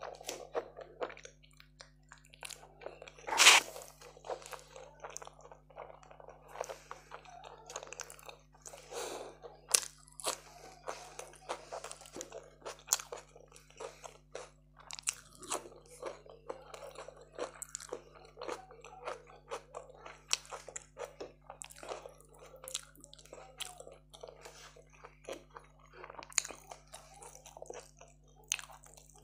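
A person chewing a big mouthful of food close to the microphone: wet mouth noises and frequent small crunches, with one loud crunch about three and a half seconds in.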